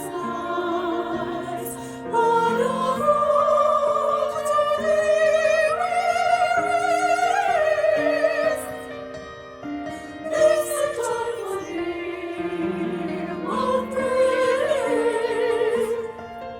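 Classical-style singing with a wide vibrato over a keyboard accompaniment of held notes; the voice drops away briefly about nine seconds in, then comes back.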